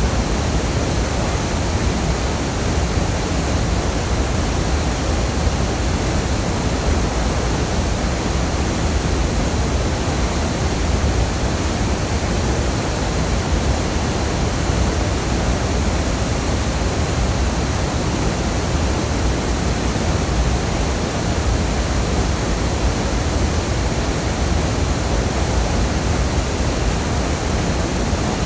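Waterfall roaring with a steady, loud rush of falling water that never lets up.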